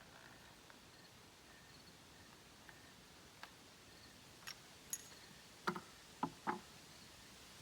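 Quiet background with a handful of short, light knocks and clicks, spaced irregularly, the loudest three coming close together about three-quarters of the way through. Faint high chirps sound in the first half.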